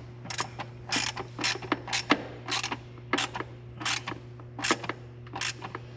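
Short-handled ratchet clicking in repeated quick bursts as intake manifold bolts are snugged down in a light first pass.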